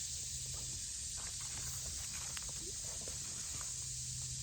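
Steady high-pitched hiss of an insect chorus, with a few faint scattered clicks and rustles.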